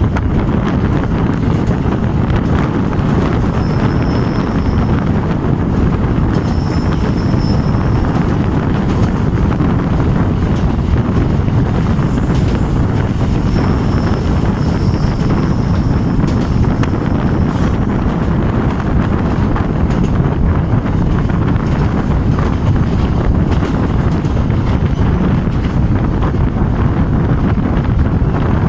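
Moving train heard from an open coach door or window: steady rumble of the running train with wind buffeting the microphone. A faint high whine comes and goes a few times.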